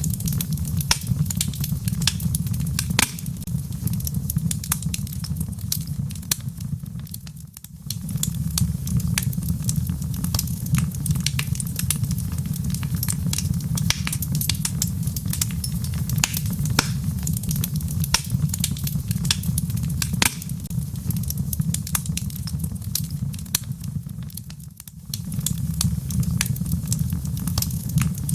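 Wood fire burning in a fireplace: a steady low rumble of flames with frequent sharp crackles and pops from the burning logs. The sound dips briefly twice, about a quarter of the way in and again late on.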